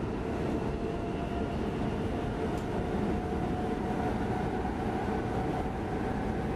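Inside the carriage of a Stockholm X10 electric commuter train running at speed: steady rumble of wheels on the track, with a faint whine that rises slightly in pitch.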